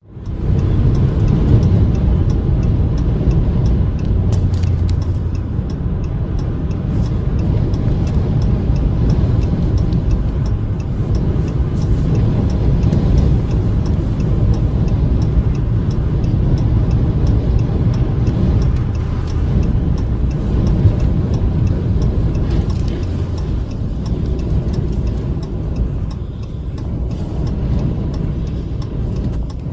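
Car driving: a steady low rumble of engine and road noise, with many faint clicks and ticks on top.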